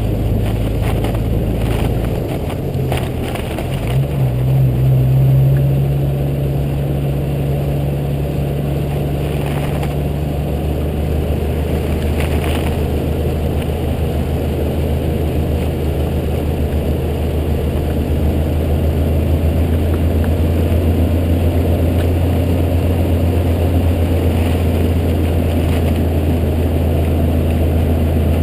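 Jeep Cherokee XJ engine running as it drives, its note rising and swelling about four seconds in, then holding steady at cruise.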